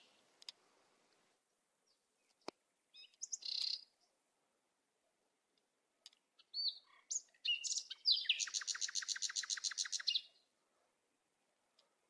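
Birds chirping: scattered short high chirps, then a fast trill of about nine notes a second that lasts about two seconds.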